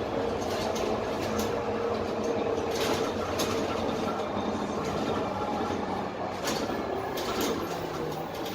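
Lower-deck interior running noise of a Dennis Trident 12m double-decker bus with a Cummins ISMe diesel and Voith automatic gearbox under way: a steady engine and road rumble with a faint whine. Several sharp rattles or knocks come through, the loudest about a second and a half, three, and six and a half to seven and a half seconds in.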